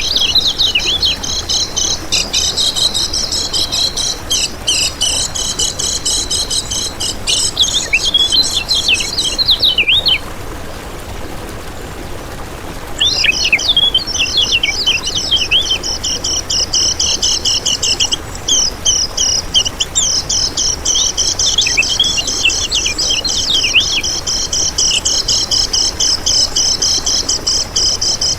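Kecial kuning, a small yellow white-eye, singing a fast, high-pitched run of chattering trills and twittering notes. The song breaks off for about three seconds near the middle, then resumes.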